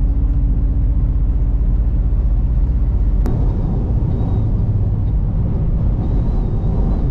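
Inside a moving semi-truck cab in strong wind: a steady low road and engine rumble, with a thin hum that stops at a short sharp click about three seconds in.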